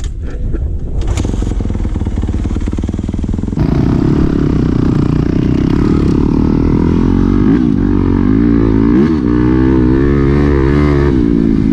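Dirt bike engines running. A louder engine sound comes in about three and a half seconds in, and its revs rise and fall a few times in the second half.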